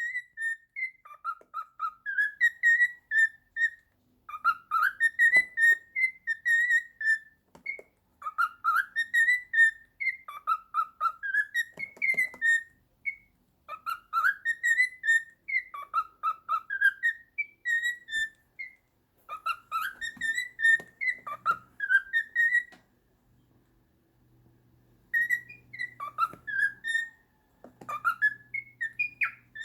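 Cockatiel whistling a learned tune: the same short melodic phrase of sliding notes, repeated over and over with short pauses between, and a longer pause about three quarters of the way through.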